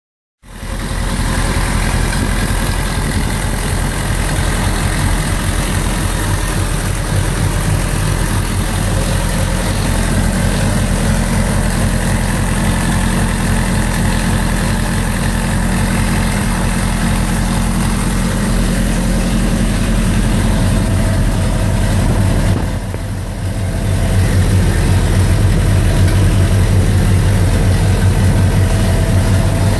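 1937 Austin Seven's four-cylinder side-valve engine with twin carburettors running steadily on its first commissioning test with its new electrics and fuel system. Its level dips briefly about three-quarters of the way through, then it runs a little louder.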